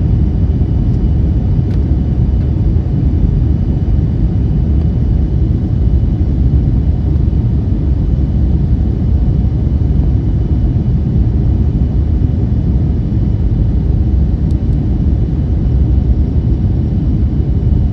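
Airliner during landing: a loud, steady, low rumble of engine and airframe noise, with a faint steady high whine above it.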